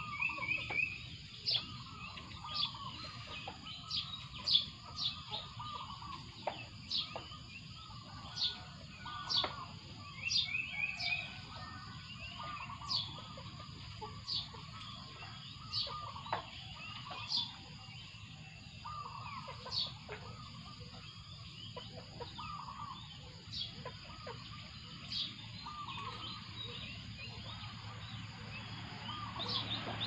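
Birds calling: sharp, high chirps that fall in pitch, repeating about every second or so, with lower, fuller calls in between, over a steady high insect drone.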